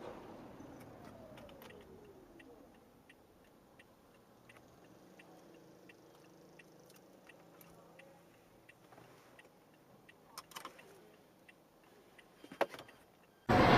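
Faint, steady ticking in a quiet vehicle cabin, with a falling tone in the first couple of seconds and a few sharp knocks near the end. A sudden loud burst of noise starts just before the end.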